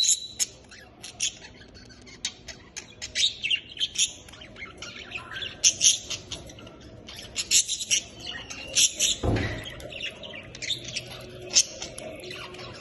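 Budgerigars chirping and chattering in quick, sharp, high calls, with one brief thump about nine seconds in.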